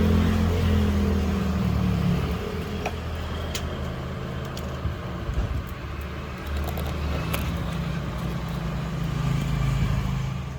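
Motor vehicle engine running in street traffic, a low steady hum that shifts in pitch a couple of times, with a few light clinks of cookware.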